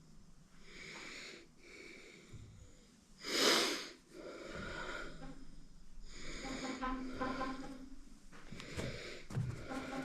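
A person's breathing and sniffing at close range, with one loud burst of breath about three and a half seconds in.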